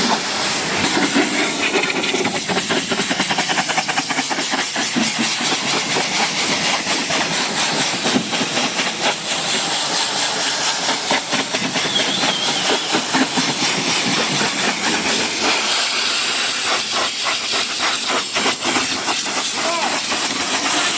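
Pressure-washer water spray hissing steadily against a car, spattering off the bodywork.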